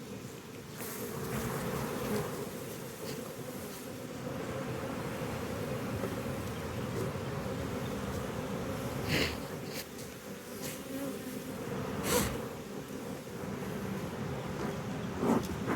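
A honey bee colony buzzing steadily as a low, even hum, with two sharp knocks about nine and twelve seconds in.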